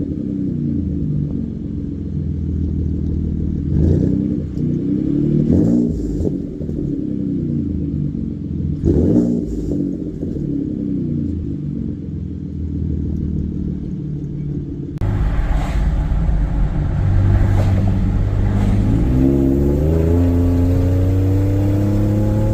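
2018 Ford F-150's 3.5 EcoBoost twin-turbo V6, running through an AWE 0FG exhaust with a 3-inch Borla resonator, idles and is revved three times in quick blips. About fifteen seconds in, the sound changes to the engine heard from inside the cab while driving. Near the end the engine note climbs steadily under acceleration.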